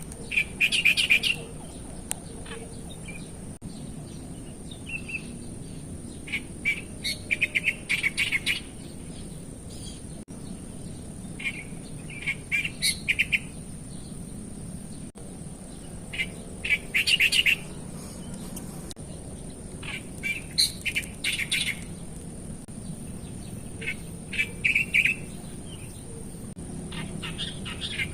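Wild birds chirping in short clusters of rapid notes every few seconds, over a steady high-pitched drone.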